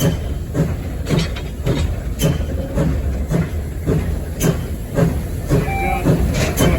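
Steam locomotive running, heard from the cab: a steady low rumble with a regular beat a little under twice a second.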